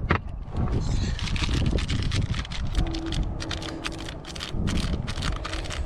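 Rapid scraping and clicking of a tool stirring Bondo body filler and hardener together, over a low rumble of wind on the microphone.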